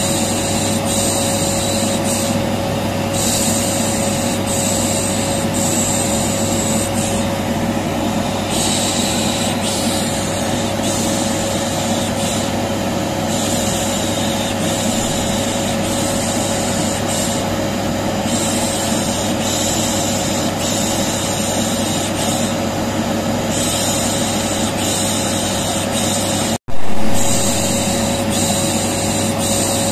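Vacuum cleaner running with a steady drone and hum, overlaid with repeated 'shh' shushing hisses that come and go every second or two, as soothing noise for a colicky baby. About 27 seconds in, the sound cuts out for an instant and restarts, where the loop repeats.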